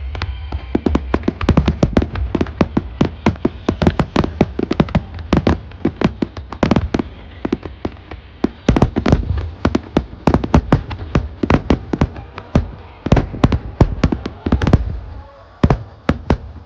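Aerial firework shells bursting in a rapid volley of sharp bangs and crackles, several a second. Near the end the barrage thins out to a few last single bangs.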